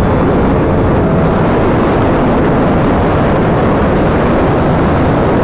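Loud, steady wind rush on the microphone of a Yamaha R1 sport bike riding at highway speed. The inline-four engine's tone shows faintly through it in the first second.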